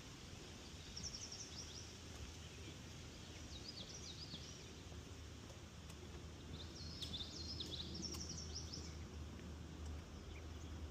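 Songbird singing in three bursts of quick, high, jumping notes, about a second in, around four seconds in and again near the end, over a steady low background rumble.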